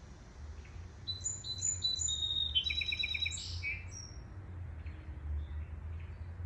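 A songbird singing: a few clear repeated notes starting about a second in, then a quick trill, ending about three and a half seconds in, with one more short note just after. A steady low rumble runs underneath.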